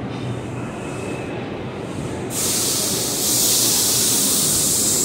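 A train rumbling, with a loud hiss that starts abruptly about two seconds in and grows louder a second later.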